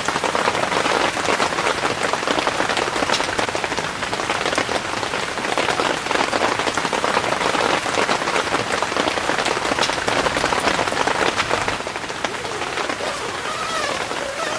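Heavy rain falling steadily, a dense patter of drops striking a surface, easing slightly near the end.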